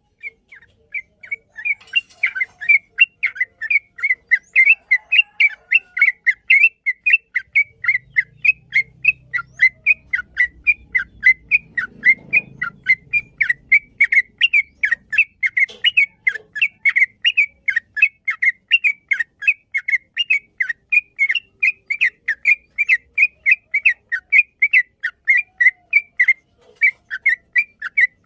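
Yellow-vented bulbul (trucukan) singing a long, unbroken run of short whistled notes, about three or four a second, in the fast repeated 'ropel' style.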